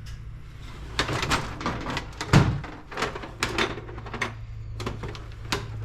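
Tools and small objects clattering and knocking as they are handled and rummaged through, a quick series of sharp knocks with the loudest about two and a half seconds in, over a steady low hum.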